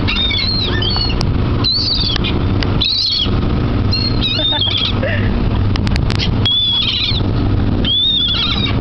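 Gulls calling: a string of short, high, wavering cries, roughly one a second, over a steady low rumble.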